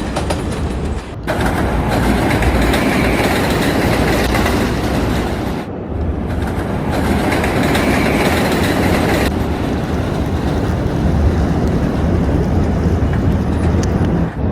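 A train running along its track with a steady rumble and rail clatter. The sound changes abruptly about a second in, about six seconds in, and about nine seconds in.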